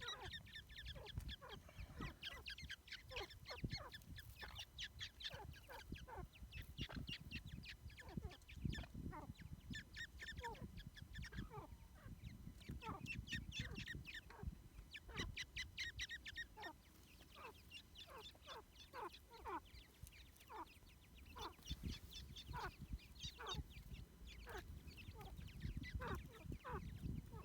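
A brood of teetar (francolin) chicks peeping continuously: many short, high, falling cheeps overlapping one another, over occasional low thuds.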